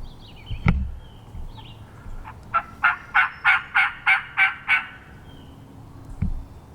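A run of about nine turkey yelps, evenly spaced at roughly four a second and lasting a little over two seconds. A dull knock comes just before it and another near the end.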